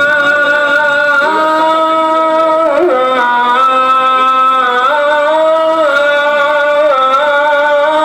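Music: a voice sings a slow melody of long held notes that step up and down in pitch.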